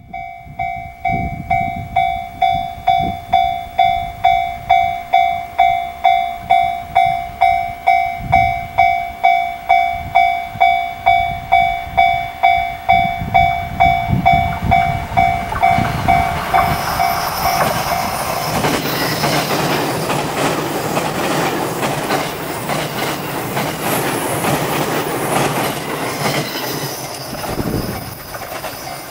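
Japanese level-crossing bell ringing its steady electronic ding-ding at about two strokes a second. About sixteen seconds in, a limited express train passes through at speed, and the rushing of its wheels on the rails covers the bell, then eases off near the end.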